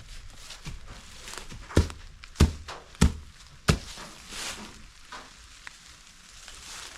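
Four sharp, heavy thuds in a steady rhythm, about two-thirds of a second apart, with softer knocks and rustling around them.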